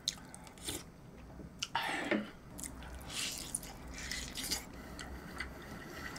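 Close-miked chewing and wet mouth sounds of someone eating braised pork rib meat, biting and gnawing it off the bone, with small clicks throughout. A louder wet mouth sound comes about two seconds in.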